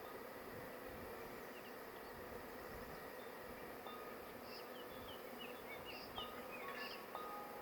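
Honey bee swarm humming steadily as the bees settle into their new hive boxes.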